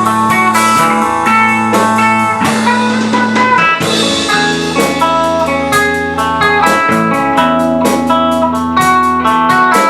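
A band playing a song: guitar over a drum kit, with the drums settling into a steady, quick beat about four seconds in.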